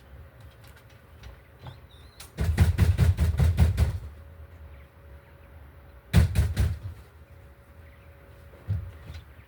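A bird's wings flapping: a quick run of wingbeats lasting about a second and a half, then a second, shorter flurry a couple of seconds later, and a soft thump near the end.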